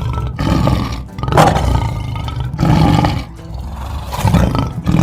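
Lion roaring: a series of deep, rough roars in quick succession, each rising and dying away about a second apart.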